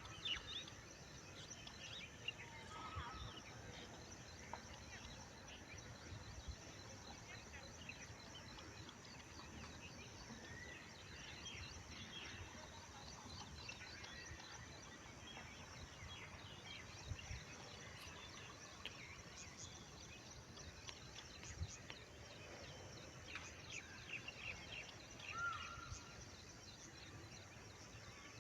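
Faint outdoor background with scattered short bird chirps and a few brief whistled calls.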